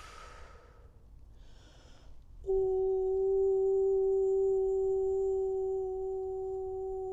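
A woman's voice taking a breath or two, then holding one long, steady, pure-sounding note from about two and a half seconds in: toning as part of a light-language sound transmission.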